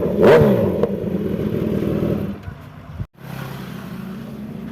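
Superbike engine idling, blipped twice in quick succession near the start with short rises and falls in pitch, then settling and fading about two seconds in. After an abrupt break near the three-second mark a quieter engine keeps running steadily.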